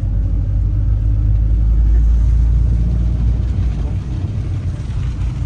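Small bus in motion, heard from inside: a steady low engine and road rumble that swells a little about halfway through.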